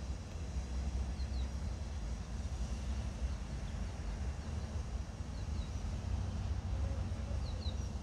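Birds chirping faintly, pairs of short high falling notes about a second in, after five seconds and near the end, over a steady low rumble.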